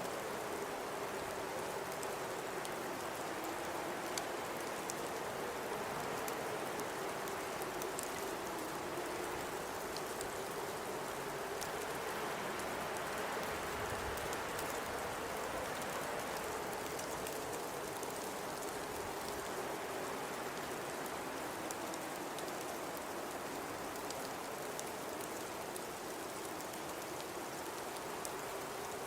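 Blizzard wind blowing steadily, a constant hiss with a low moaning howl that slowly sags and rises in pitch, and faint scattered ticks.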